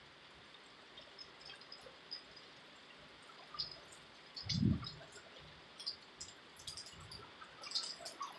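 Light rain dripping, with scattered faint drop ticks, and a brief low thump a little past halfway.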